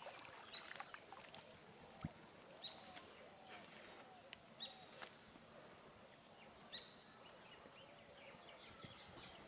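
Faint outdoor ambience with birds calling over and over in short chirps, and a few brief sharp clicks.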